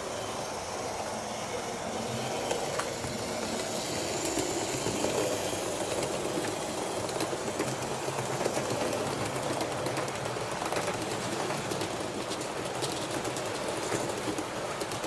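A train rolling along rails: a steady running noise with many fine clicks from the wheels.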